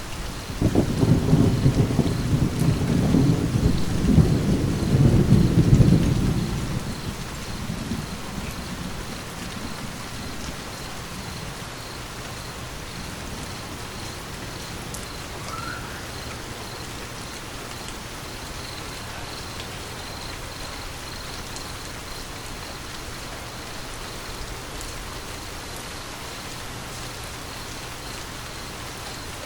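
Steady rain with a rumble of thunder that starts about a second in, stays loud for about six seconds, then rolls away over the next few seconds while the rain keeps falling.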